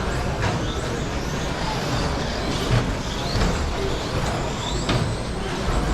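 Several electric RC short-course trucks with 13.5-turn brushless motors racing together: a steady whir of motors and tyres with short rising whines as trucks accelerate.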